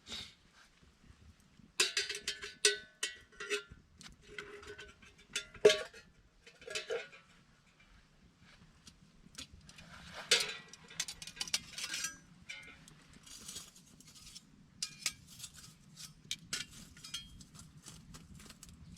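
Irregular clinks and knocks of metal objects being handled, several ringing briefly with a bell-like tone, loudest about two, five and a half, and ten seconds in. A faint steady low rumble runs underneath.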